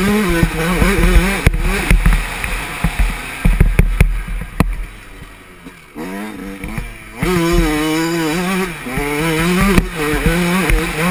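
Yamaha 125 two-stroke motocross bike engine revving up and down hard as the throttle opens and closes, with a quieter off-throttle lull a few seconds in. Sharp knocks are scattered through it.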